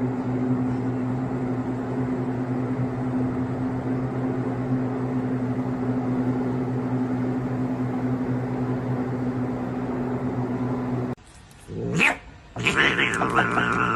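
A steady hum with a constant low tone runs until a sudden cut about eleven seconds in. Then a cat yowls near the end, in drawn-out, rising cries.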